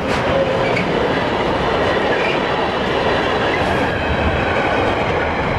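Container freight train's wagons passing at close range: a steady, loud rolling noise of steel wheels on rail, with a few short, faint squeals.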